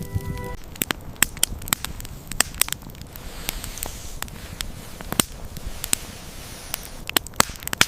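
Wood campfire crackling, with sharp irregular pops and snaps, several a second, over a soft hiss.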